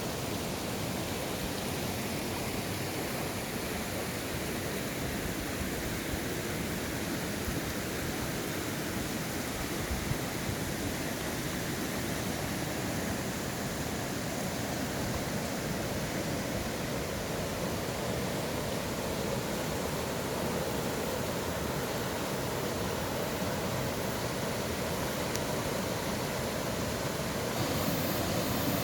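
Mountain valley stream rushing steadily: a dense, even hiss of flowing water, a little louder near the end.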